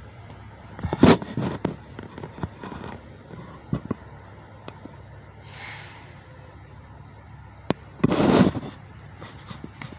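Two loud short bangs, one about a second in and one about eight seconds in, with scattered clicks and knocks between them over a steady low hum.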